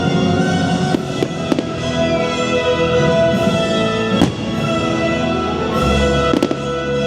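Orchestral show music playing, with a handful of sharp firework bursts over it, the loudest a little past the middle.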